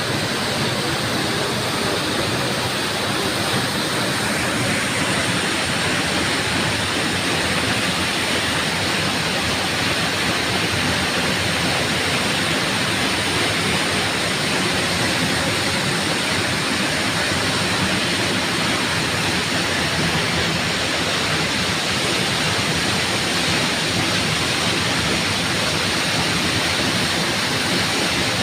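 Waterfall splashing and rushing steadily: a constant, even wash of falling water.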